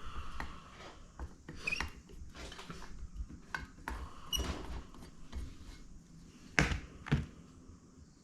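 Small clicks and light clinks of carburettor screws and parts being handled and set down on a workbench, with a couple of short squeaks. Two sharper knocks come near the end.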